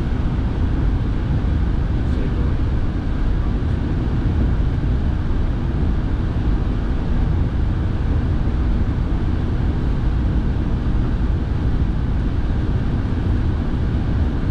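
Car cabin noise while driving: a steady low rumble of engine and road, with the car's heater blowing.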